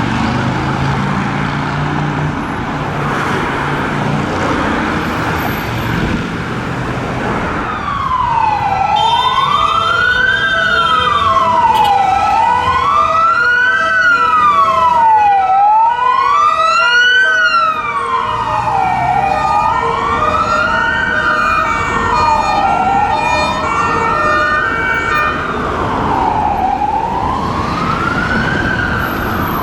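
Traffic and vehicle engine noise, then, from about 8 seconds in, an ambulance's electronic wail siren slowly rising and falling, about one sweep every three and a half seconds, over the traffic.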